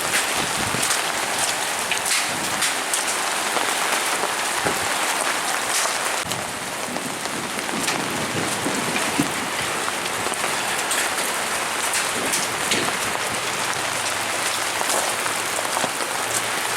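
Heavy rain pouring steadily during a hailstorm, with many sharp individual strikes on hard surfaces.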